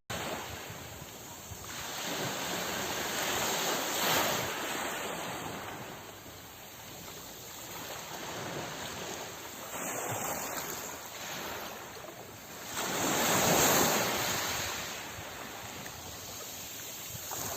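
Sea waves breaking: an even rush of surf that swells and ebbs every few seconds, with the biggest wave about three quarters of the way through.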